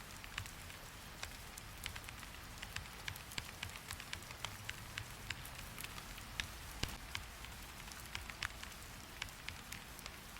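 Steady rain hiss with scattered, irregular sharp clicks of drops or taps.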